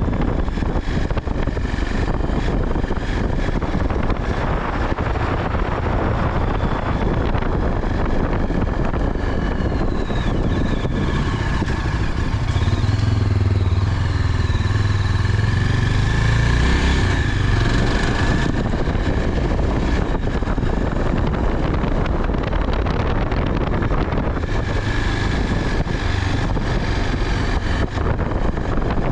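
Motorcycle running steadily on the move, its engine hum mixed with road and wind noise on the microphone. The engine note grows stronger for a few seconds midway.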